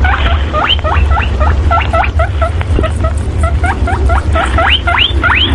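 A small animal giving a rapid run of high squeaks, each sweeping sharply upward in pitch, several a second, over a steady low hum.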